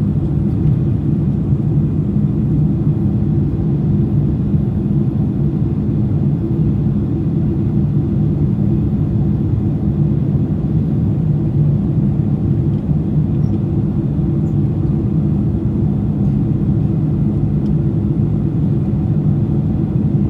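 Steady cabin rumble inside a Boeing 747-400 in flight, heard from a window seat: engine and airflow noise with a few steady low hums and no change in level.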